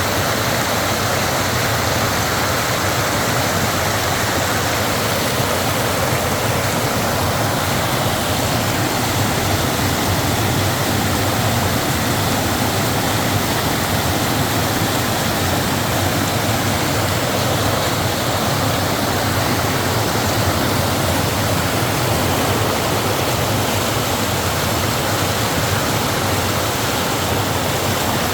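Mountain valley stream running, a loud, steady wash of flowing water.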